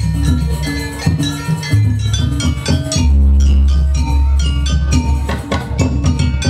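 Jaranan dance music: struck metallic percussion and drums playing a busy pattern over a deep, sustained low booming tone.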